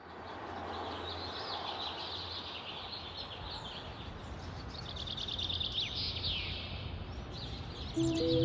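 Birds chirping and trilling over a steady low background noise. Music comes in right at the end.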